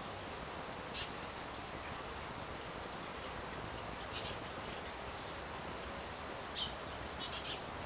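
Small bird chirping with short high calls, a few scattered ones and then a quick run of them near the end, over a steady background hiss.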